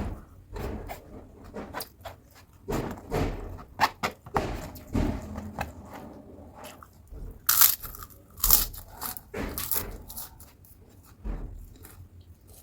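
Chewing and biting into crispy battered fried tempeh and raw cucumber, irregular crunches and chews, with a run of loud sharp crunches in the middle.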